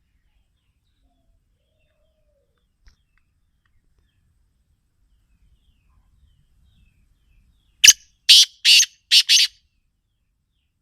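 Black francolin (kala teetar) calling once near the end: a harsh, grating phrase of five quick notes.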